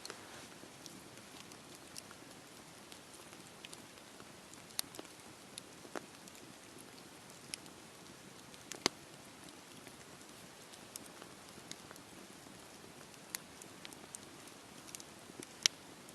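Wood fire crackling in a fireplace: a soft steady hiss with scattered sharp pops, the two loudest about nine seconds in and near the end.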